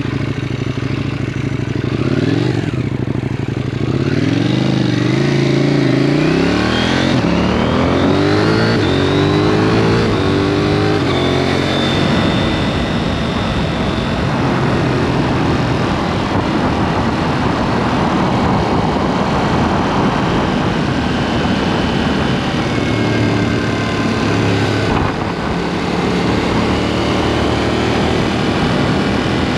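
KTM 790 Duke's parallel-twin engine, through an aftermarket SpeedPro Cobra SPX exhaust, revving up through several gears in quick succession over the first dozen seconds. The engine pitch rises, drops at each shift and rises again. Then the bike holds a steadier speed, the engine note mixed with a rushing road and wind noise.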